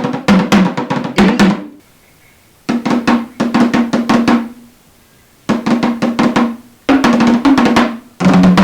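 Drumming in rapid runs of strikes, played in short phrases of one to two seconds with brief pauses between them.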